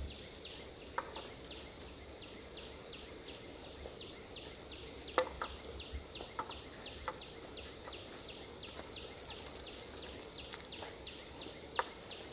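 Forest insects: a steady high-pitched drone with a short falling chirp repeating about three times a second. A few sharp clicks or knocks stand out, the loudest about five seconds in.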